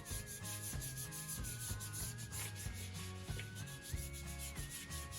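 Paintbrush scrubbing watered-down vinyl paint onto poster board in quick, repeated strokes. Soft background music with a melody and bass line plays underneath.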